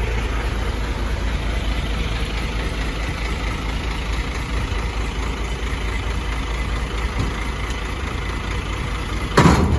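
Ford F600 dump truck's inline six-cylinder turbo diesel idling steadily with the power take-off engaged while the dump bed is lowered. A short, loud knock comes near the end.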